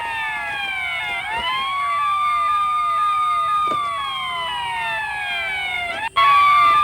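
Electronic emergency-vehicle siren sounds, two at once. One is a wail that holds a high note, slides slowly down and swoops back up about a second and a half in. The other is a fast yelp of quick falling sweeps, about three a second. The sound cuts out briefly near the end and comes back louder.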